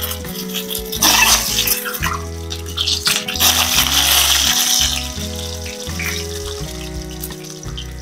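Boiled eggs sizzling in hot oil in a pan, the sizzle swelling about a second in and again from about three and a half to five seconds in. Background music with a steady bass runs underneath.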